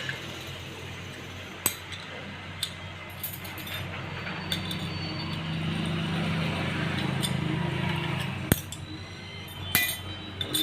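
Metal tools and motorcycle engine parts clinking as they are handled: a few sharp clinks, seconds apart, over a low steady hum.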